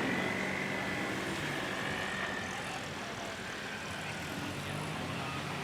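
A vehicle engine running steadily, with a high whine that rises slightly at the start and fades out after a couple of seconds.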